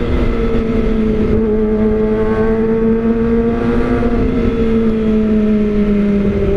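Kawasaki ZX-25R's 250 cc inline-four running at steady high revs through an Austin Racing aftermarket silencer. It gives a quite loud, held exhaust note that sags slightly in pitch.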